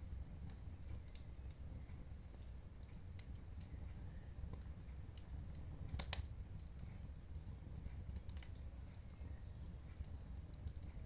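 Wood fire crackling in a fireplace: scattered small crackles and one louder pop about six seconds in, over a low steady rumble.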